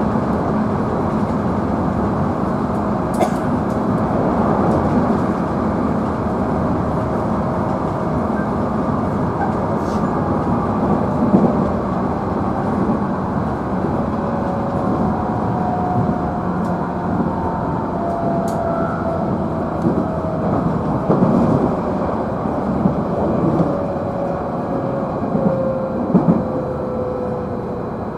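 Interior running noise of a JR Central 311-series electric train's motor car at speed: steady rumble of wheels on rail, with the traction motor whine slowly falling in pitch through the second half and a few short clicks.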